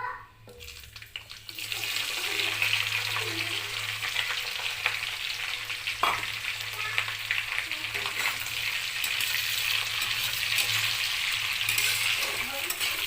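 Marinated chicken pieces frying in hot oil: a dense sizzle and crackle that starts up about a second and a half in and then holds steady.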